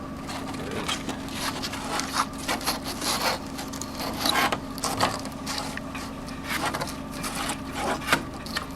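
Steady hum of a multi-rip edging saw's drive running, with irregular wooden knocks and scraping of boards being handled or fed through it.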